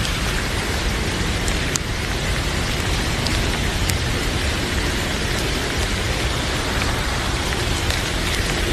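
Heavy rain pouring steadily, with a few faint sharp clicks scattered through it.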